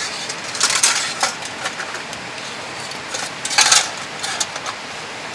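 Metal cutlery clinking against dishes during a meal: a few scattered light clinks, the loudest cluster about three and a half seconds in, over a steady hiss.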